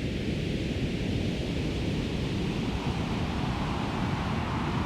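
Synthesized weather ambience made from filtered white noise in Ableton: a steady low rumbling noise with a separate hiss layered above it, shaped to imitate wind and rain.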